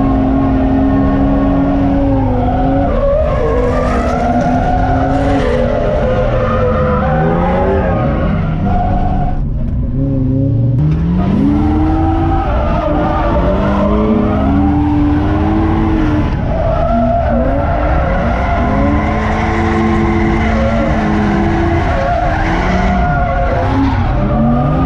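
BMW E30's swapped M50B25 non-VANOS straight-six revving hard, its pitch repeatedly climbing and falling through a drift, with tyre squeal, heard from inside the car. About ten seconds in the revs drop briefly, then climb steeply again.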